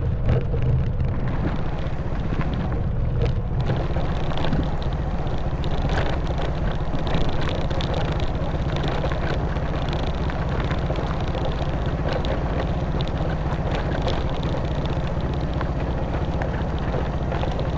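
Honda Wave 110cc's single-cylinder four-stroke engine running steadily under way, with a hiss of wind and road noise. The hiss thickens a few seconds in, with scattered clicks.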